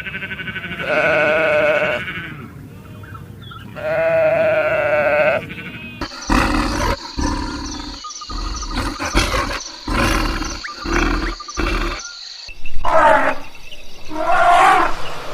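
A string of different animal calls cut one after another: two long, wavering calls, then a stretch of heavy thumps, then loud roar-like calls near the end.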